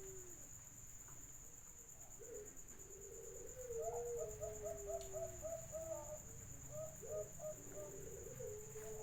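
Doves cooing: drawn-out coos that fall in pitch, and in the middle a quick run of short, clipped coo notes at several a second. A steady high-pitched whine runs underneath.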